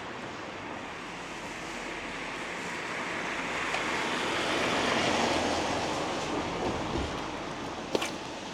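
A vehicle passing on a wet road: the hiss of its tyres swells to a peak about halfway through and fades away, over a steady wash of rain noise. A single sharp click comes near the end.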